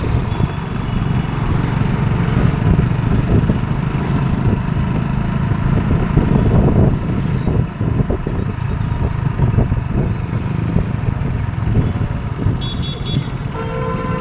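Steady low rumble of a running motor vehicle, with a short horn toot near the end.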